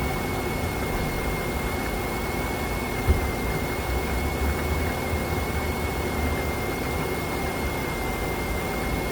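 A Chrysler 3.8-litre V6 engine idling steadily while its cooling system is bled of air, with a thin steady whine above the hum. A single short thump comes about three seconds in.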